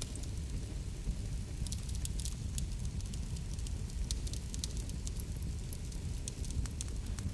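Wood fire burning in a fireplace, crackling: a steady low rumble with frequent, irregular sharp pops and snaps.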